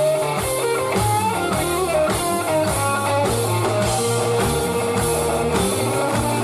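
A live band playing a groove with a blues feel: electric guitar over bass and drum kit, with an even beat.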